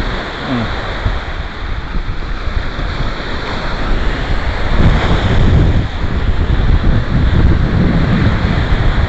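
Ocean surf breaking and washing up the beach, with wind buffeting the microphone. The surf grows louder about five seconds in.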